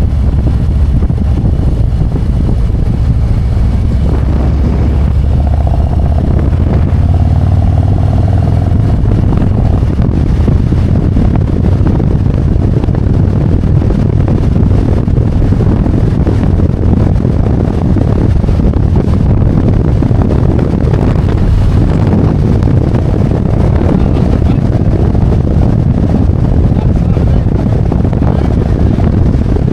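Harley-Davidson Road Glide's V-twin engine running steadily while riding on the road, with wind rushing over the microphone.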